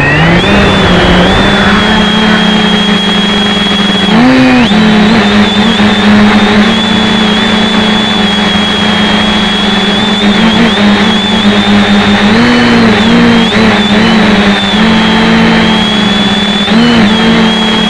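A 550mm quadrotor's electric motors and propellers whining steadily, heard close up from a camera strapped to the frame. The pitch settles in the first half second, then wavers briefly a few times.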